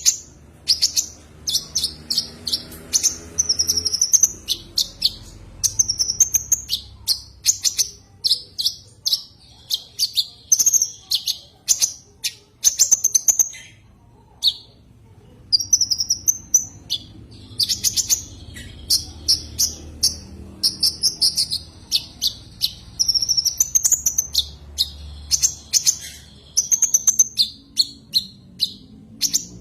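Kolibri ninja sunbird (konin) singing a fast, unbroken string of high, sharp chirps and short trills, with a brief pause about halfway through. It is the bird's call to a rival.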